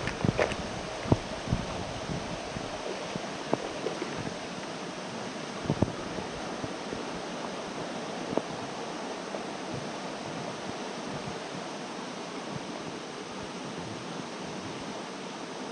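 Mountain stream water rushing steadily, with a few sharp clicks and knocks in the first half.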